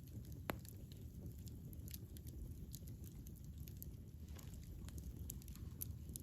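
Campfire burning: a low, steady rumble of flames with irregular sharp crackles and pops of burning wood, the loudest pop about half a second in.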